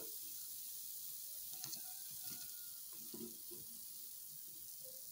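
Hot cooking oil sizzling faintly and steadily in a frying pan, with a few faint soft knocks from about one and a half to three and a half seconds in as the kebabs are handled in a bowl of beaten egg.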